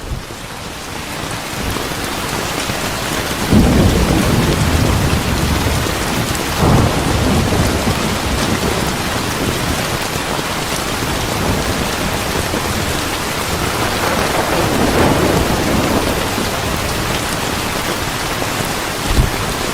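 Steady heavy rain with thunder rolling through it. Low rumbles swell about 4 seconds in, again near 7 seconds, and for a couple of seconds around 15 seconds, with a short low thump near the end.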